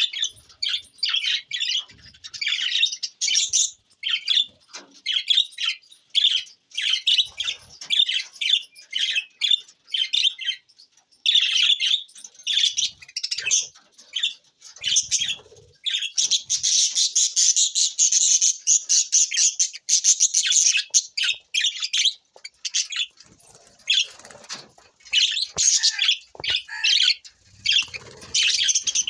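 Budgerigars chirping and warbling in quick runs of short, high chirps, with a denser, louder stretch of chatter about halfway through.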